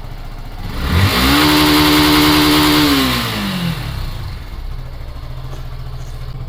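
Yamaha FZ-FI V2's 149 cc single-cylinder engine idling, then revved hard about a second in, held flat at full throttle against the rev-limiter cut-off for about two seconds, and dropping back to idle. The engine has run about 54,000 km without being opened.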